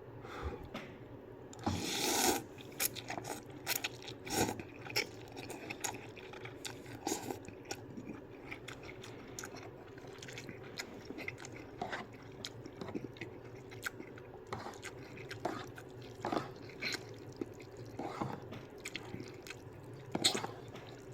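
A person eating ramen noodles: a louder noisy slurp about two seconds in, then irregular chewing with small wet mouth clicks.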